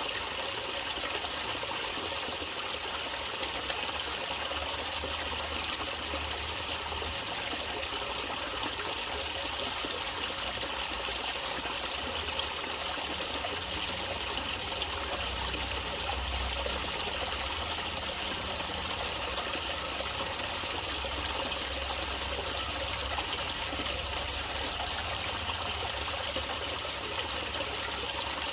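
Running water of a stream trickling and splashing in a steady, unbroken flow.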